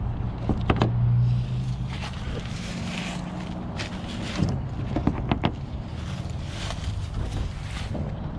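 A vehicle running with a steady low engine and road hum and wind noise, broken by scattered sharp clicks and knocks.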